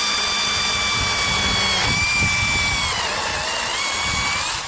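Yovot 21-volt brushless battery chainsaw running flat out with a steady high whine. Its pitch sags briefly about two seconds in and more deeply about three seconds in as the chain takes the load of a one-handed cut into a branch, then climbs back.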